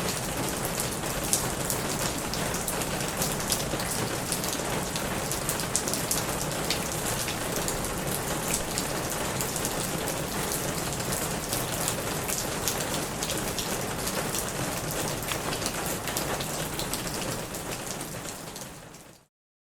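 Gentle rain falling on a roof: a steady hiss dense with fine drop patters. It fades out near the end and stops.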